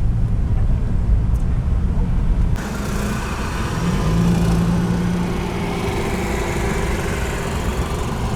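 Car engine and road noise: a dense low rumble, then after a sudden change about two and a half seconds in, an engine drone that rises in pitch and holds steady.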